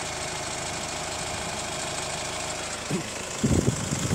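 Hyundai ix35 CRDi diesel engine idling hot, a steady fast pulse with a crunching knock ("хрум-хрум") that the owner suspects comes from the hydraulic lifters or the timing chain tensioner. A short louder thump near the end.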